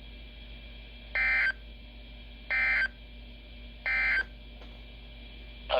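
Emergency Alert System end-of-message data bursts on NOAA Weather Radio: three short, identical electronic screeches about a second and a half apart, which signal the end of the warning broadcast. A faint steady radio hiss and hum runs underneath.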